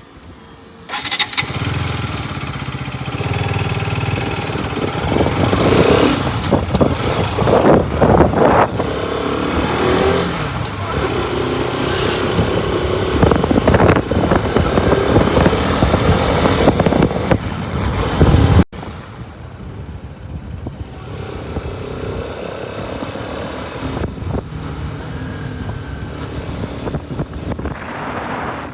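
Bajaj Pulsar RS200 motorcycle's single-cylinder engine running on the move, rising and falling in pitch as it revs, with wind noise. The sound comes in sharply about a second in, and about two-thirds of the way through it cuts abruptly to a quieter stretch of engine and wind.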